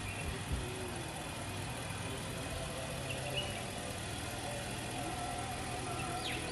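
Nissan Armada's 5.6-litre V8 idling steadily, a low even hum.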